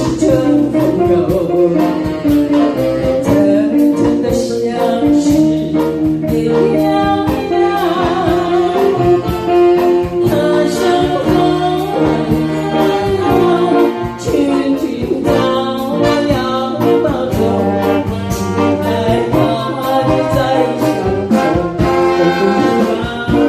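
Live band playing an early Mandarin pop ballad, with a horn-like melody line over a steady drumbeat and bass.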